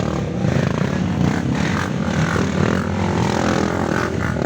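Off-road motorcycle engines running, a steady rough engine drone.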